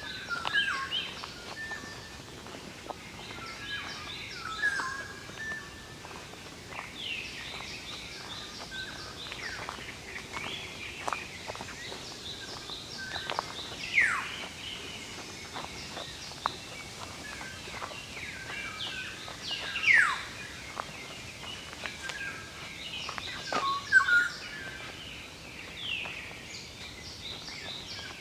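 Several wild birds calling and singing in woodland: repeated runs of short, high thin notes go on throughout, with louder downward-sliding calls about a third of the way in, about two-thirds of the way in, and again near the end.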